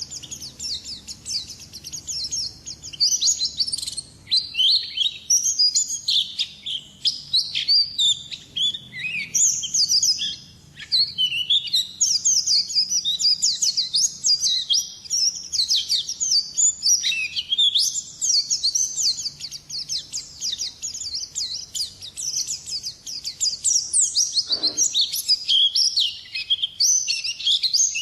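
White-eye (pleci) singing its long, fast, continuous 'ngalas' song: a dense run of rapid high twittering chirps, with a brief pause about ten seconds in.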